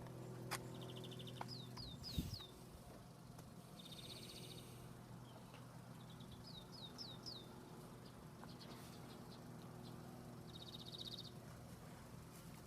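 Songbirds singing: groups of three or four quick falling chirps, twice, and short buzzy trills now and then, over a faint steady low hum.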